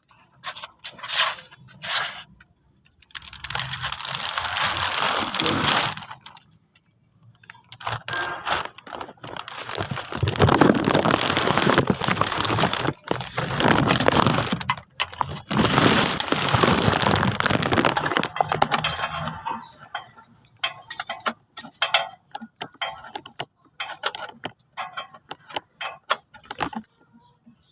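Repair work on a car's gearbox: sharp metallic clinks and knocks of tools, with two long stretches of loud, harsh hissing or scraping noise in the middle.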